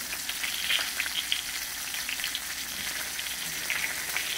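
Halved Brussels sprouts sizzling in oil in a skillet, a steady hiss with scattered small crackles and pops.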